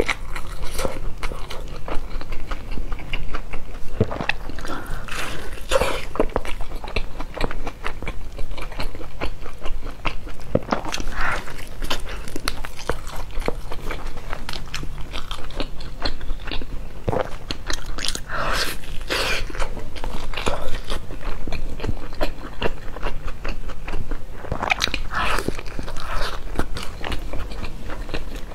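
Close-miked biting and chewing of a pan-fried flatbread stuffed with greens and shredded carrot, in a dense run of irregular mouth clicks and chews.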